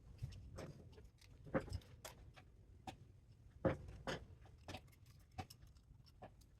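Scattered knocks and clicks of metal parts being handled during the scrapping teardown of a DC spot welder, irregular and faint, the two loudest about a second and a half and nearly four seconds in.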